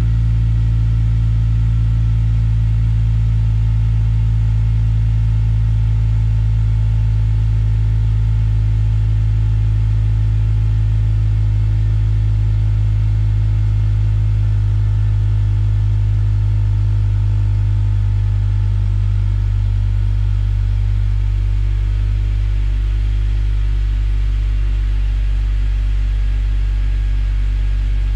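Honda Accord Euro R (CL7)'s K20A four-cylinder engine idling through a Mugen exhaust manifold and Mugen muffler, a steady low exhaust drone shortly after start-up. About two-thirds of the way through the idle eases down a little and the sound gets slightly quieter, as the fast idle settles.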